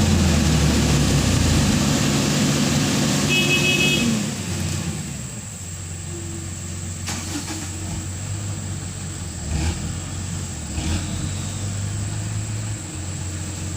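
Heavily loaded truck engine revving hard under strain for about four seconds as it fails to pull out of soft ground, then dropping back to a lower, steady run. A brief high beep sounds just before the engine eases off, and a few faint knocks come later.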